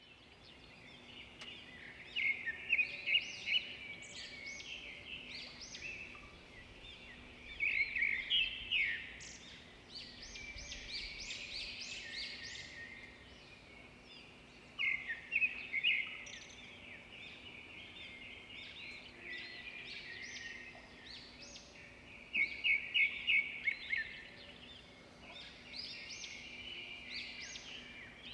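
Small birds chirping and twittering in several bursts of quick, high, repeated notes, over a faint steady hum.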